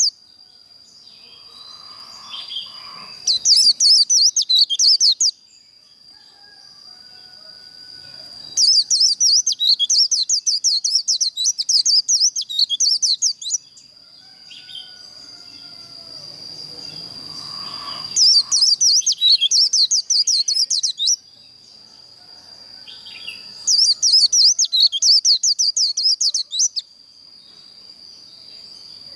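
White-eye singing its rapid, jumbled 'líu' song in four bursts of a few seconds each, with quieter twitters between them. A steady high-pitched whine runs underneath.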